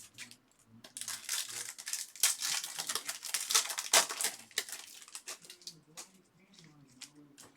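Trading card pack wrappers being torn open and crinkled by hand, a dense run of crackling rips, busiest in the first half and quieter near the end.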